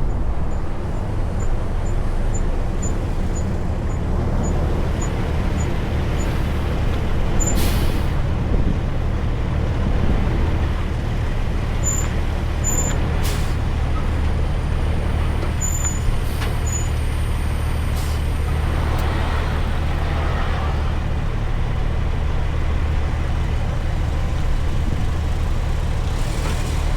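Diesel engine of a heavy-haul truck, loaded with an excavator, running with a steady low drone. A light ticking comes about twice a second over the first few seconds, and a few sharp clicks follow later on.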